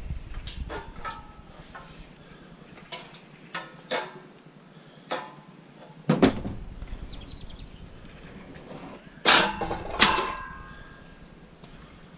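Scattered metallic knocks and clanks, some ringing briefly, as pieces of scrap metal are handled and taken apart. The loudest is a pair of clatters about three quarters of the way in.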